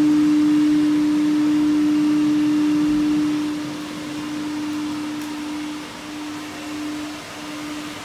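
Steady electrical hum of onboard equipment inside an ALe 642 electric train, a single low tone over a haze of running noise. It is loud for the first few seconds, then fades and breaks up near the end.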